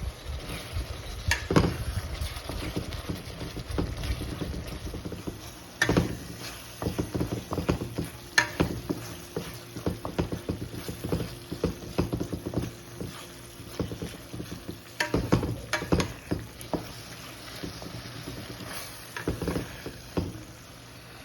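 A cooking utensil stirring chicken in a pot, with many irregular knocks and scrapes against the pot, over a steady low hum.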